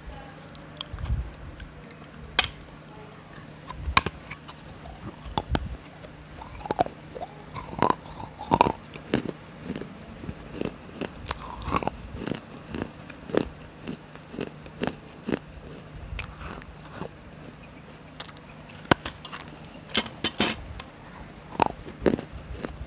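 Close-miked crunching bites and chewing of a hard, brittle piece of baked-clay cup (kulhad): sharp, irregular crunches, several a second at times. A steady low hum runs underneath.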